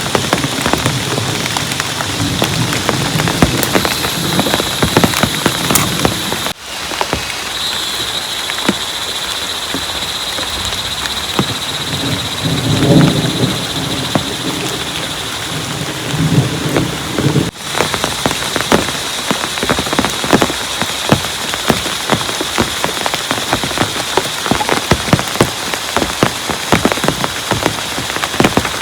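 Heavy rain pouring, with many drops pattering sharply on a surface, and low rumbles of thunder at the start and twice more about halfway through.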